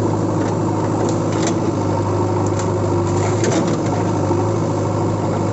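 Steady idling engine drone with a constant low hum and scattered light clicks throughout.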